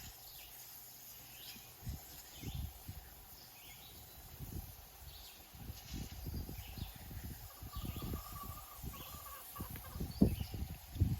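Chickens clucking faintly among short bird chirps, with scattered low bumps and knocks that come thicker near the end.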